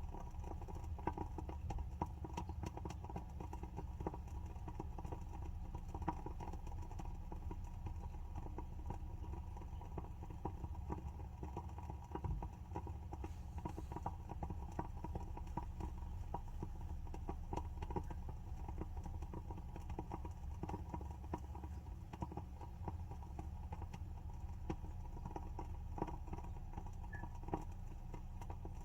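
WoodWick candle's wooden wick crackling as it burns: a steady run of small, irregular pops and ticks over a low hum.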